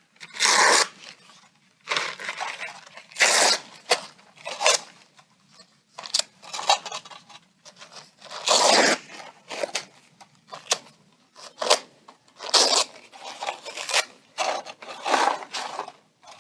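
Paper napkins or paper towel being torn by hand into strips: a dozen or so short ripping strokes, each under a second, with brief pauses between them.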